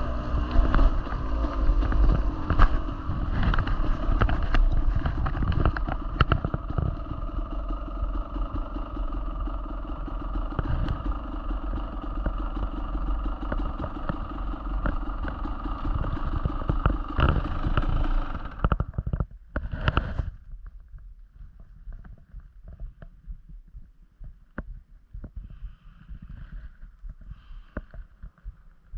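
Dirt bike engine running under way on a trail, with a rough, fluttering note. About 19 seconds in the engine drops away sharply, gives one short rev at about 20 seconds, then stays much quieter to the end.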